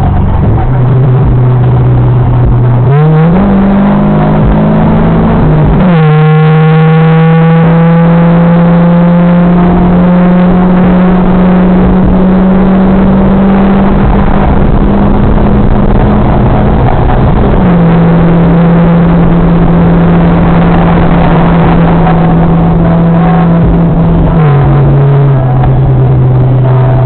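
Car engine and exhaust running hard under acceleration, loud throughout, with the engine note shifting in pitch several times.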